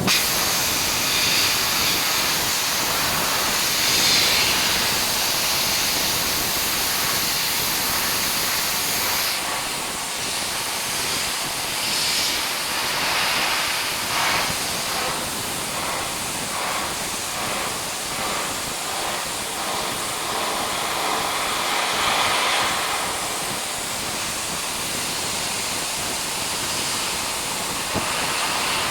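Dry-ice blaster firing a jet of compressed air and dry-ice pellets at a fan heater: a loud, continuous hiss, its sharpest top end softening a little about nine seconds in.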